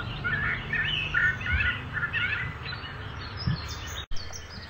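Many birds chirping and calling together in quick, short, overlapping chirps. The sound cuts out for an instant about four seconds in, then higher-pitched chirps carry on.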